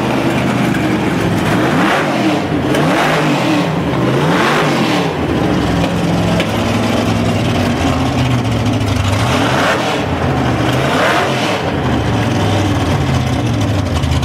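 McLaren race car engine running, revved in short blips several times, its pitch swooping up and falling back to a steady rumble between them.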